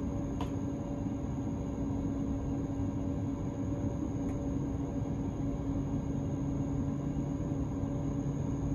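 Steady hum and rumble inside an electric S-Bahn train standing at a station, its ventilation and electrical equipment running. There is a faint click about half a second in.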